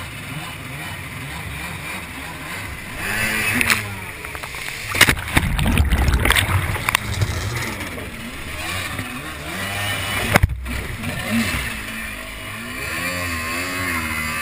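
Jet ski engine revving up and down, with a stretch of loud, rough splashing and knocking noise midway.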